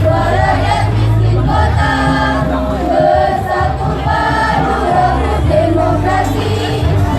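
School choir singing in unison, holding long notes, over a steady low bass accompaniment.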